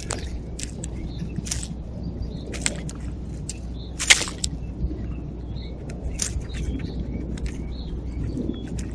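Birds feeding at a backyard feeder: irregular short sharp clicks and chirps, the loudest about four seconds in, over a steady low hum.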